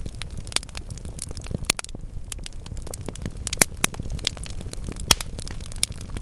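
Wood fire burning in a fireplace: a steady low rumble of flames under irregular crackles and sharp pops from the logs, with the loudest pops at about 1.5, 3.5 and 5 seconds in.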